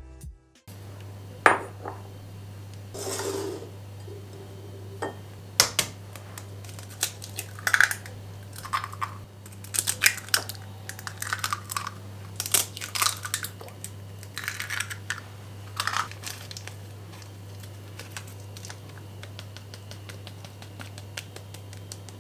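Dishes and cutlery clinking and knocking as things are handled, scattered irregularly over a steady low hum.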